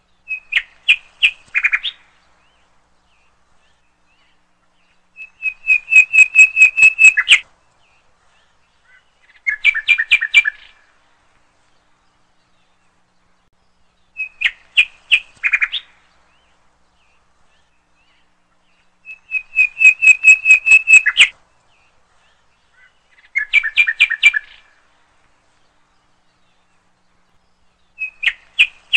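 Bird song from a looped recording: short phrases of quick repeated chirping notes with pauses between them, the same three phrases repeating about every 14 seconds.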